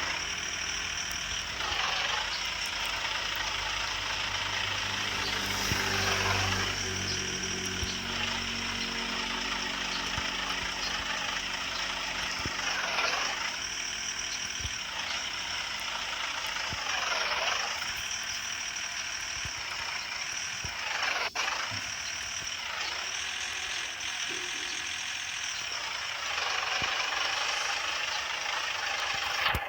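Truck engines running steadily, with a whooshing sweep that comes back every four to five seconds.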